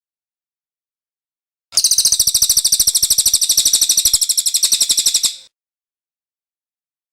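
A cililin songbird sings one rapid, evenly pulsed trill of high notes lasting about three and a half seconds. It starts abruptly a couple of seconds in and stops cleanly, with dead silence around it.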